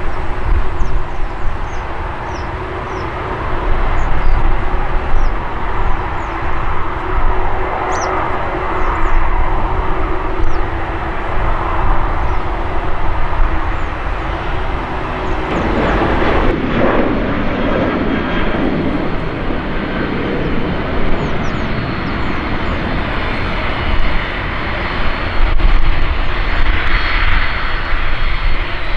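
Jet airliner engines running, a loud, steady roar over a low rumble, with an abrupt change in the sound about halfway through.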